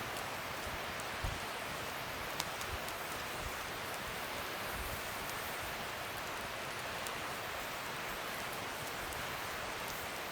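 Wood fire burning: a steady hiss with scattered sharp crackles and pops, the loudest about a second in and another just after two seconds.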